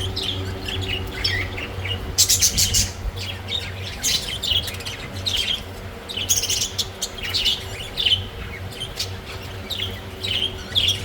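Budgerigars chirping and chattering in quick, busy squawks over a steady low hum.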